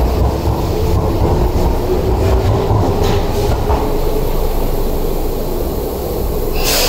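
Tobu 70000 series electric train pulling out along the platform: a low running rumble with wheel clicks and a faint steady motor tone, easing off about four seconds in as the train clears the platform. Near the end comes a short, sharp hiss of air.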